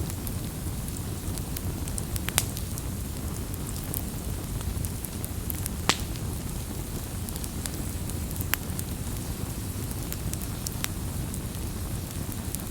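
Wood fire burning, with a steady low rumble and scattered sharp crackles and pops, a few louder ones about two, six and eight and a half seconds in.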